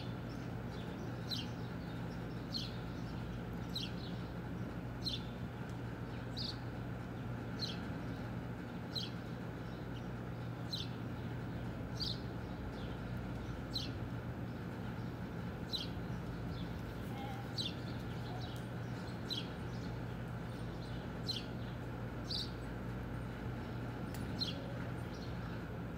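A small bird chirping over and over, one short falling chirp about every second and a half, over a steady low hum.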